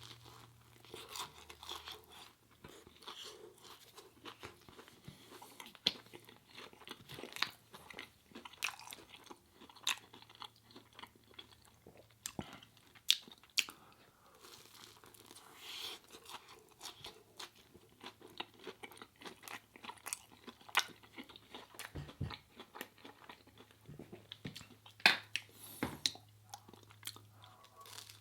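A person chewing food close to the microphone, with wet chewing and many irregular sharp crunches and bites, a few of them much louder than the rest.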